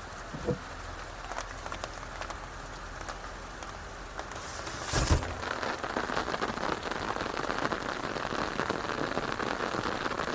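Rain falling close to the microphone, heard as a steady hiss of many small drop hits. There is a louder knock about five seconds in, and after it the drops come denser and louder.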